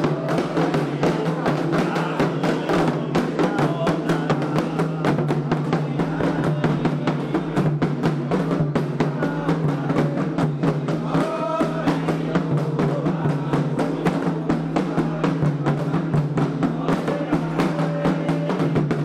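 Candomblé ritual drumming: hand drums playing a fast, steady, driving rhythm, with a short sung or called note about halfway through.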